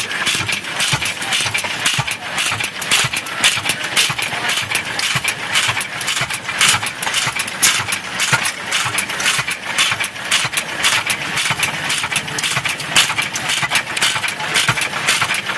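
1915 IHC Titan single-cylinder stationary engine running, with a quick, uneven clatter of clicks and knocks from its firing and moving parts.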